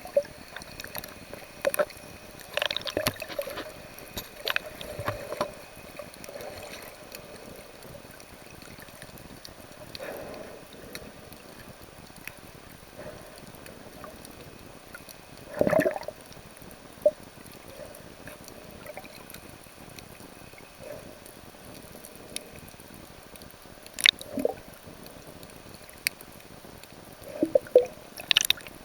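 Sea water gurgling and sloshing around the camera as it moves at and below the surface, with a steady hiss and scattered clicks and bubbly bursts; the loudest burst comes about halfway through, and a cluster of them near the end.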